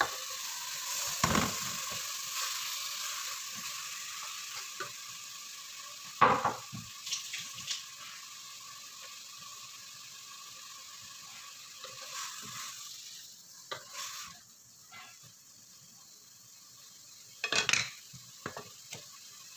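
Diced lamb sizzling in oil with sautéing garlic, onion and tomato in a stainless steel pot, the sizzle slowly dying down. A wooden spoon knocks and scrapes a few times: about a second in, around six seconds in, and near the end.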